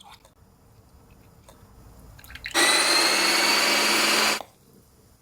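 A blender running for about two seconds, switched on and off abruptly, its motor whine rising slowly as it spins up.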